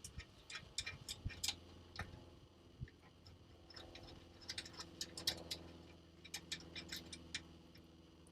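Light, irregular metallic clicks and ticks of screws and nuts being loosened by hand from a steel under-seat storage unit's lids, over a faint low hum.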